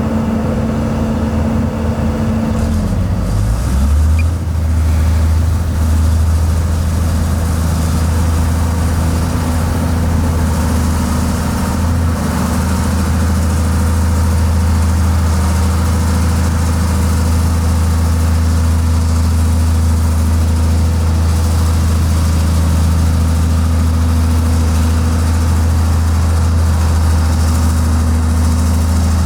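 Heavy diesel engine of construction machinery running steadily; about three seconds in its pitch drops, then it holds an even, low note.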